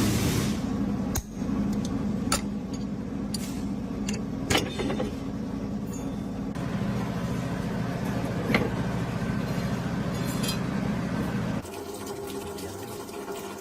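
Truck engine running steadily, with a few sharp metallic clicks or knocks over it. The low engine sound drops away near the end.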